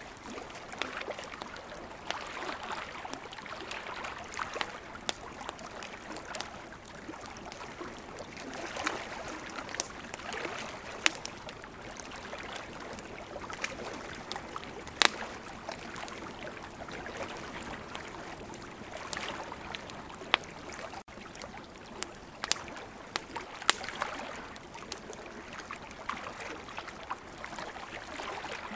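Campfire crackling with frequent sharp pops, a few of them loud, over the steady wash of ocean waves that swells and eases every few seconds.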